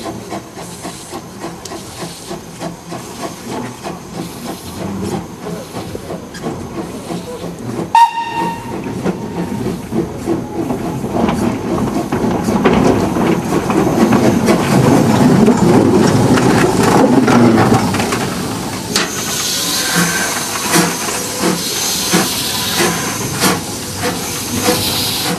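Narrow-gauge steam locomotive. It gives one short whistle toot about a third of the way in, then runs by, getting louder in the middle. Near the end steam hisses over regular exhaust beats.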